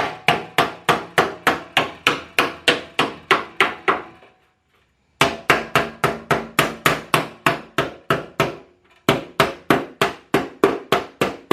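Small hammer striking a car's fender lip in quick, even blows, about four a second, to flatten the crease and roll the fender. The hammering stops for about a second a little past four seconds in, and again briefly near the end.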